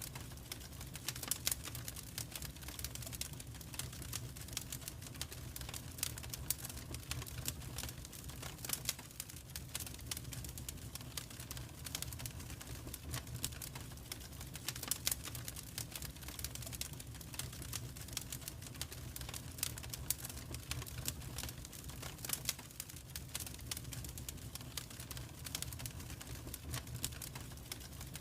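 Wood fire crackling in a fireplace, with irregular snaps and pops several times a second over a steady low rumble.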